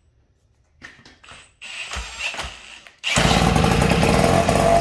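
1960s Mercury two-stroke outboard motor, primed with fuel poured into the carburetor, being pulled over by hand: a few clicks and coughs, then it fires about three seconds in and keeps running loudly.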